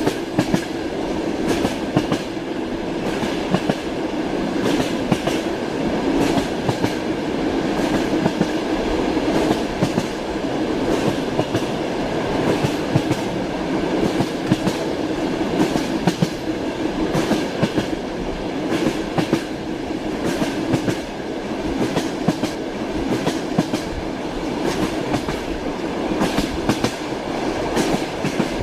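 Train wheels clattering over rail joints: a steady rolling rumble broken by repeated sharp clicks, often in small groups.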